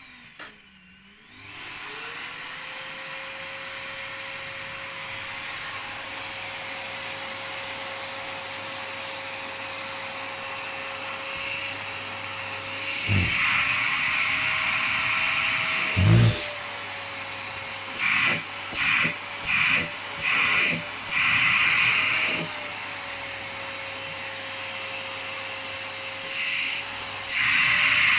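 Vacuum cleaner switched on and spinning up to a steady whine, then running. Its suction noise gets louder in several stretches as the nozzle is worked over the cat's coat, with a couple of dull thumps.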